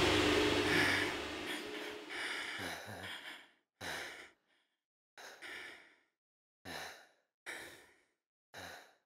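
A man panting hard after a struggle, in short, separate breaths about one a second, as background music fades out in the first second or so.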